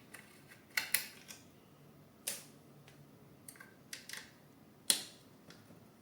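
Sharp clicks and taps of parts and tools being handled during 3D printer assembly. The clicks are separate and irregular, with a pair about a second in, a small cluster near four seconds, and the loudest just before five seconds.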